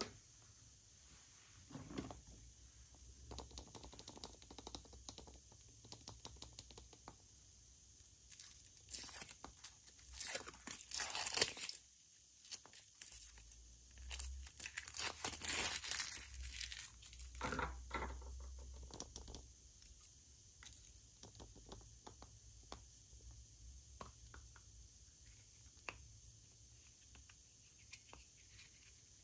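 Wrapping being torn open and crinkled, in irregular bursts of tearing and rustling with scattered small clicks and crackles between them.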